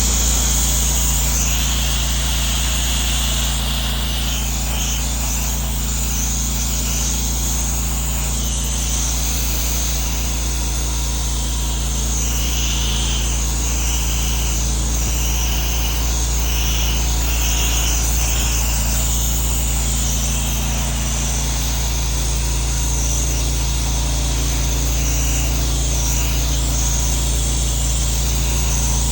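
Pressure washer running steadily with a low engine hum, and the hiss of water spraying.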